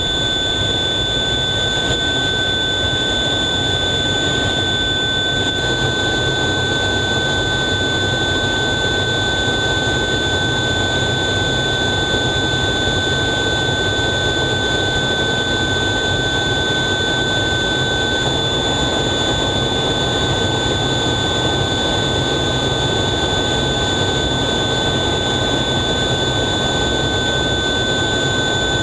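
Steady jet engine and airflow noise heard inside an F/A-18 Hornet cockpit, with a constant high-pitched whine over it.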